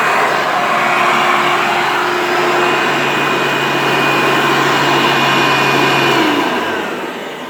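Hoover Elite upright vacuum cleaner running loudly with a steady motor whine, switched off about six seconds in, its motor then spinning down with a falling pitch.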